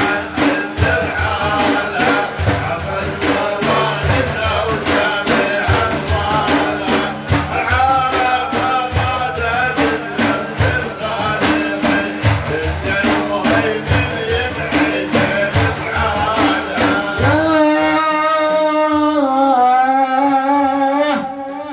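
Sufi devotional chanting over fast, dense hand-drum strokes. About seventeen seconds in, the drumming stops and a male voice holds one long, wavering sung note for a few seconds.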